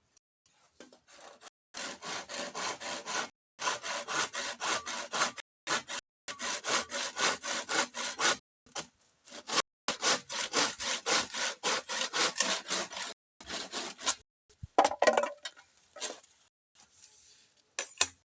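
Hand saw cutting through bamboo in quick, even back-and-forth strokes. The strokes come in several runs of a couple of seconds each, with short pauses between. A brief louder clatter comes near the end.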